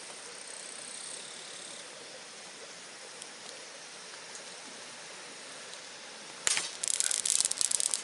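Steady outdoor background hiss, then about six and a half seconds in, a second and a half of close rattling and clinking from hard objects being handled.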